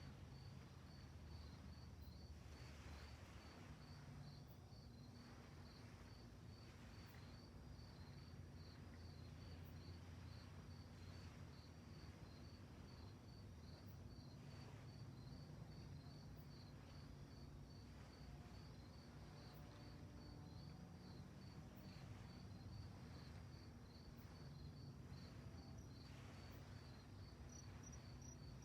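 Crickets chirping faintly in a steady, even rhythm of about three chirps a second, over a low rumble.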